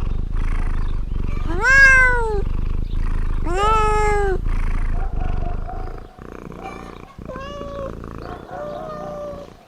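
Domestic cat purring loudly, with two long meows that rise and then fall, about two and four seconds in. After about six seconds the purring stops and several shorter, softer meows follow.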